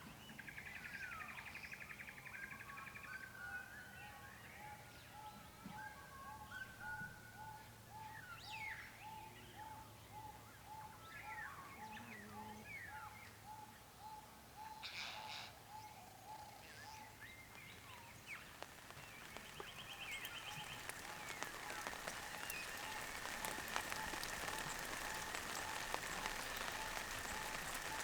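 Birds calling and singing, with many short chirps and trills and one short note repeated about twice a second. About two-thirds of the way through, a steady patter of rain builds up under the birdsong.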